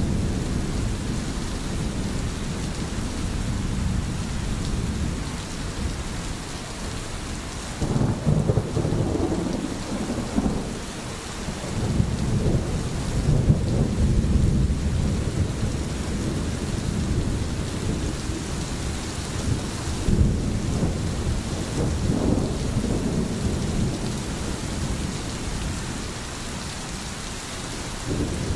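Steady rain falling in a thunderstorm, with deep rolling thunder rumbling under it that swells and fades several times.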